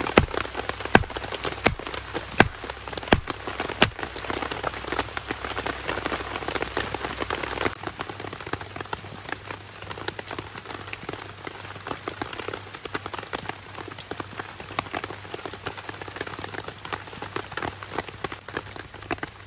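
Rain pattering steadily on a DD tarp overhead. In the first four seconds heavier drops strike about every 0.7 s.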